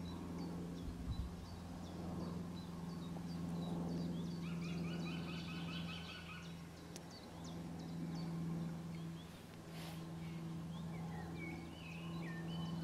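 Wild birds calling outdoors: one keeps repeating a short, high, falling chirp, a trill comes in about five seconds in, and a warbling phrase near the end, all over a steady low hum.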